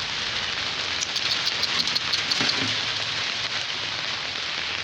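Heavy rain falling steadily, with a run of sharp, close drop hits about one to two and a half seconds in.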